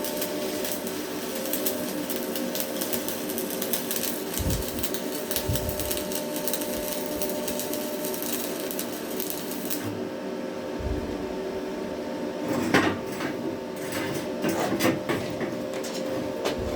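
Stick welding arc from a Hilco welding rod, crackling and sizzling over a steady hum, which cuts off about ten seconds in. A few separate knocks and clatters of metal follow.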